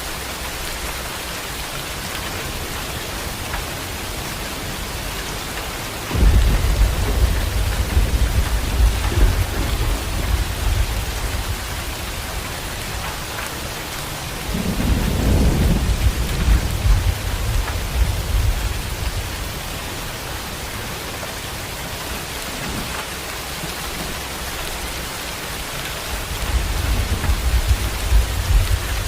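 Heavy rain falling steadily, with thunder rumbling three times: a rumble starting abruptly about six seconds in, another around the middle lasting a few seconds, and a third building near the end.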